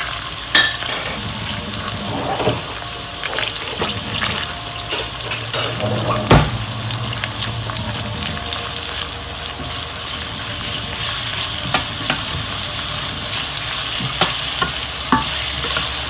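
Garlic, green onions and pimento peppers sizzling in hot olive oil and butter in a stainless steel wok, the sizzle growing fuller about halfway through. A metal spoon stirring them clinks and scrapes against the pan now and then.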